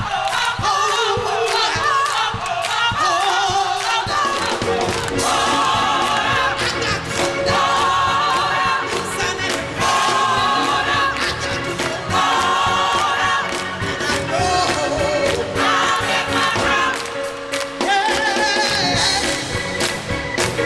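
Gospel choir singing with instrumental accompaniment, in short repeated phrases every two to three seconds; a steady held note joins the music about four seconds in.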